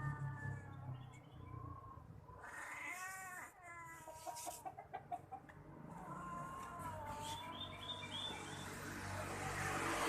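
Cats yowling at each other in a fight standoff: drawn-out, wavering calls that rise and fall, with a short stuttering stretch in the middle.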